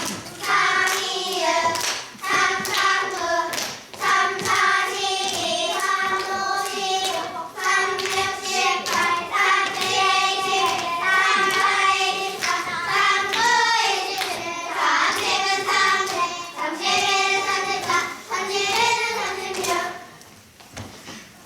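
A group of children singing in unison, keeping time with hand claps and body slaps; the singing stops about a second before the end.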